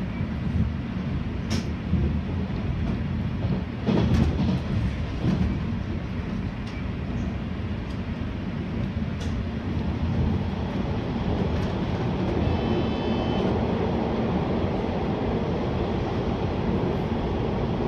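485-series electric train running at speed, heard from the driver's cab: a steady rumble of wheels on rail with a few sharp clicks early on, growing fuller and more even once the train is in the tunnel.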